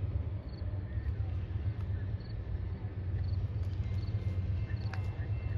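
A steady low rumble, with faint insect chirps repeating at an even pace above it.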